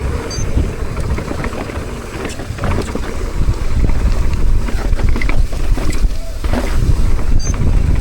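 Wind buffeting the microphone over the rumble and rattle of a mountain bike riding down a dirt downhill trail, with scattered knocks from the bike and trail.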